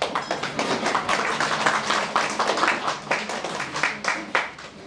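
Small audience applauding, many hands clapping unevenly, thinning out near the end.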